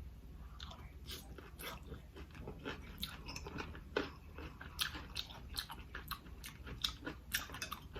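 Close-up eating sounds: a person chewing and biting seafood, with many short wet clicks and smacks in an irregular run, a few louder ones about three, four, five and seven seconds in.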